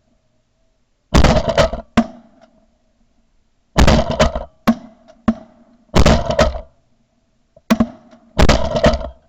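A series of four loud, sudden bangs about two seconds apart, each fading within a second, with a few lighter sharp clicks between them over a faint steady hum.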